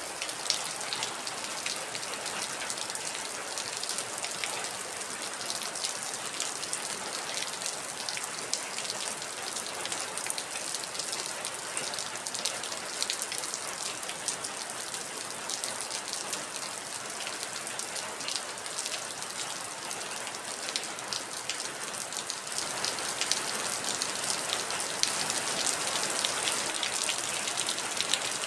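Steady heavy rain with many close drops pattering on a surface, growing a little louder about two-thirds of the way through.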